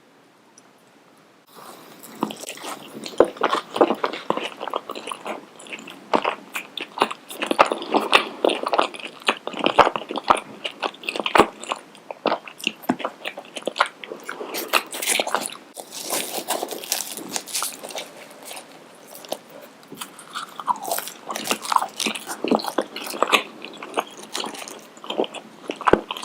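Close-miked crunchy biting and chewing of fried Indian street food, a dense run of sharp crackling crunches that starts about a second and a half in.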